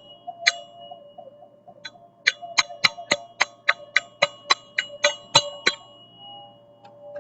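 Metal percussion instrument struck with a hard beater, each hit ringing with bright pitched tones. A few soft taps come first, then from about two seconds in a fast, even run of about a dozen sharp strikes, roughly three a second, stopping near six seconds while one tone rings on.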